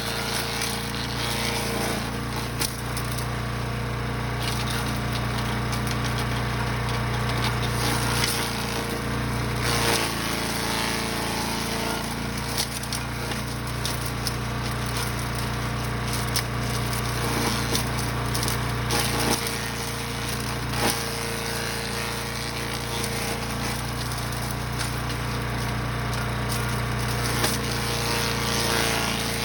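Brush Master 3-in-1 chipper/shredder's gas engine running steadily under load while the machine chews through branches, with frequent cracks and snaps of wood being chipped.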